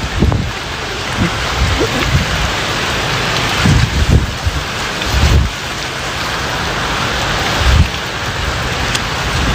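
Steady heavy rain, with irregular low thumps against the microphone every second or so.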